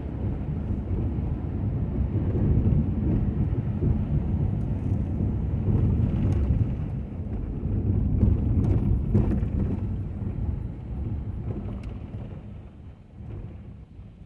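Ford F-250 pickup truck running and moving, a rough low rumble that swells and eases, then fades away over the last two seconds as it slows.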